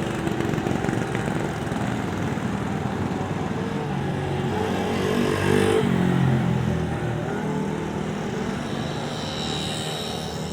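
Vintage motorcycle engines running past. One passes close about halfway through, and its engine note drops in pitch as it goes by.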